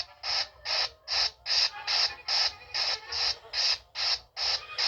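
Cartoon sound effect of a balloon being inflated: rhythmic hissing puffs of air, about two and a half a second, some with a faint squeak.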